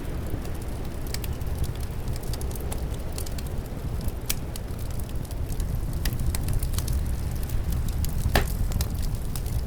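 Wood fire crackling in a fireplace with scattered small pops and one sharper pop near the end, over a steady low rumble of winter wind.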